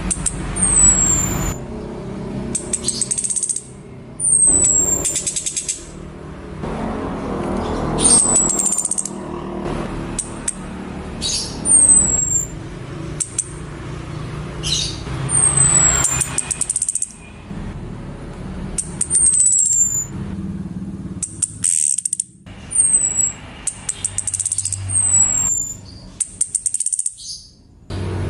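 Female orange-headed thrush calling: a short, high whistle falling in pitch, repeated every few seconds, alternating with buzzy rattling bursts, over a steady low hum. The calls serve as bait to draw male orange-headed thrushes into song.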